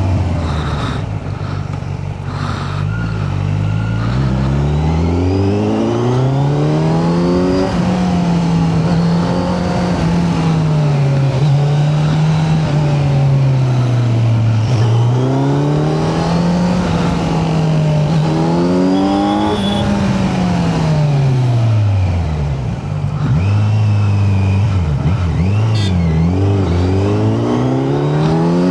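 Kawasaki Z900's inline-four engine heard from the rider's seat, revs climbing for the first several seconds and then rising and falling repeatedly as the bike accelerates and eases off. A little past two-thirds through, the revs drop low and several quick blips follow.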